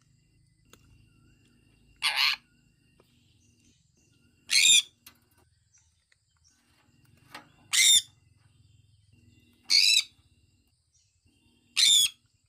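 Sun conure giving five short, loud, harsh chirps, one every two to three seconds.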